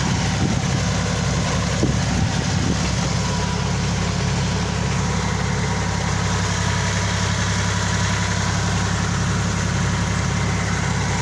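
Engine idling steadily, with a brief knock about two seconds in.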